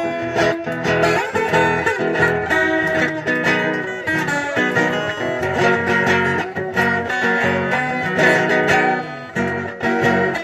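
Instrumental break in a Brazilian caipira song: plucked acoustic guitar playing the melody over an accompaniment, with no singing.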